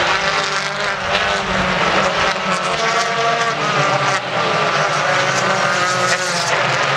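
British Touring Car Championship race cars at racing speed, several engines at high revs overlapping as they shift pitch, with many short sharp breaks in the sound.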